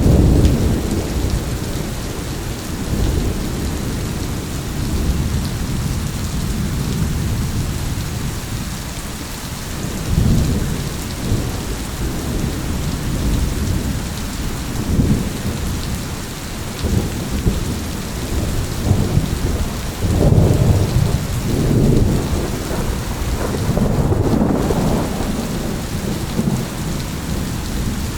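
Steady rain falling with thunder rumbling repeatedly through it, the rumbles swelling and fading, with stronger rolls about ten seconds in and again in the last third.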